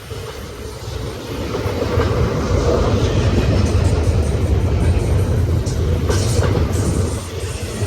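Freight train cars of a BNSF intermodal Z train rolling past on the main track: a steady, loud rumble of wheels on rail with clickety-clack. It builds over the first couple of seconds and then holds.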